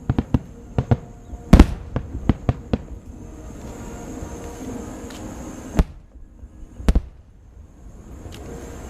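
Aerial fireworks bursting: a quick run of about ten sharp bangs in the first three seconds, the loudest about a second and a half in, then two more single bangs near six and seven seconds.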